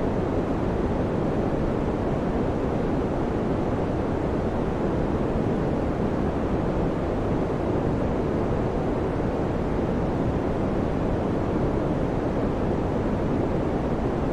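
Electric fan running steadily, a constant low, rushing whoosh of moving air with no changes.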